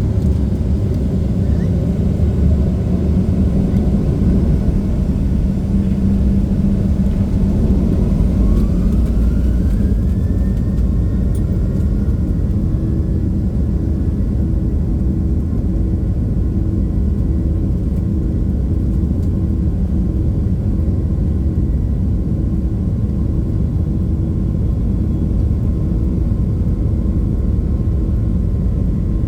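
Cabin sound of a Boeing 737-800's CFM56 jet engines over a heavy, steady rumble; about eight seconds in, an engine whine rises in pitch over a few seconds and then holds steady.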